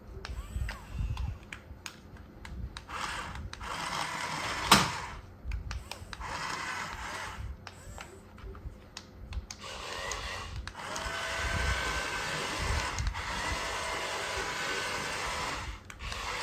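Small electric motors and plastic gearboxes of RC toy construction vehicles whirring in stops and starts, with clicks and knocks. One loud knock comes about five seconds in. A steadier whirr runs over the last six seconds.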